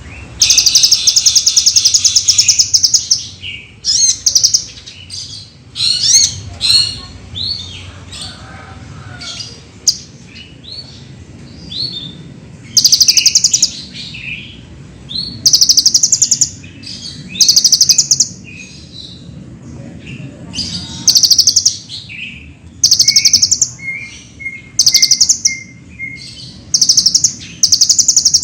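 Kolibri ninja, a sunbird, singing: bursts of rapid, high-pitched trilled song lasting a second or two, repeated every few seconds, with shorter chirps and quick sliding notes between them. In the later part, a run of short, evenly spaced lower notes sits under the trills.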